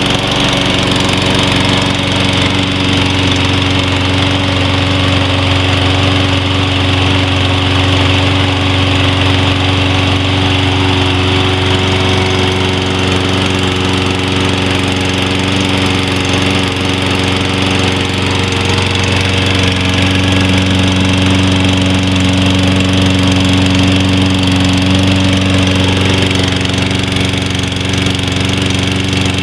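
Toro Recycler lawn mower's 190cc Briggs & Stratton engine running steadily at its governed speed just after its first start, sounding healthy.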